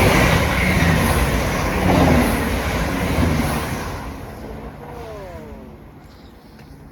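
Diesel multiple unit train passing close by, its loud rumble and rail noise fading away from about four seconds in, with a short falling whine about five seconds in.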